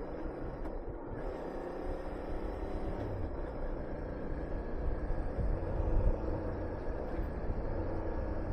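Honda VTR250's V-twin engine running steadily under way, mixed with wind rushing over the microphone as the motorcycle rides.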